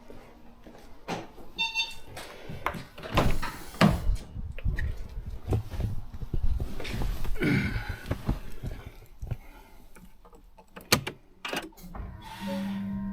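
Car door being opened and shut, with a series of thunks, clicks and rustles as someone gets in. A short chime sounds about two seconds in, and a steady hum comes on near the end.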